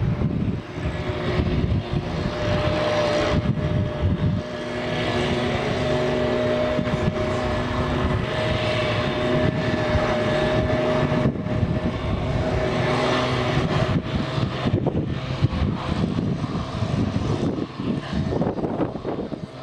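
Big truck engines running in a steady drone, with a steady whining tone through the middle stretch.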